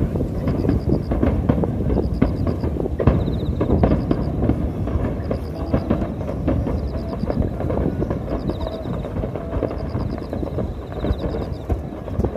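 Aerial fireworks shells bursting one after another, a continuous low rumble of booms with many quick pops and crackles on top.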